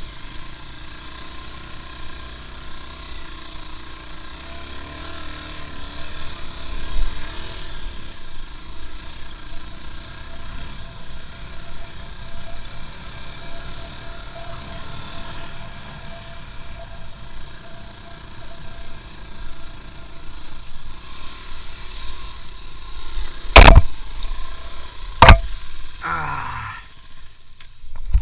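Vehicle engine running steadily, its pitch wavering a little, with two sharp knocks about a second and a half apart near the end, followed by a short falling whine.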